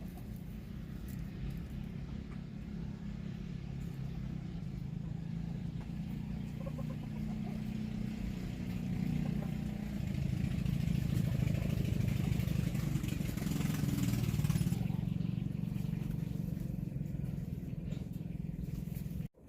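Steady low rumble of a running engine, growing louder through the middle and then easing off, with a brief cutout just before the end.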